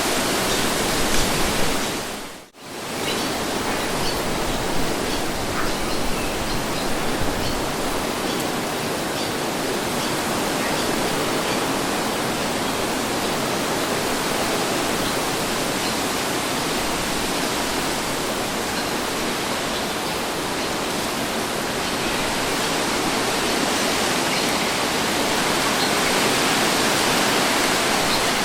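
Steady wind noise, an even hiss with little gusting, that drops out briefly about two and a half seconds in before returning.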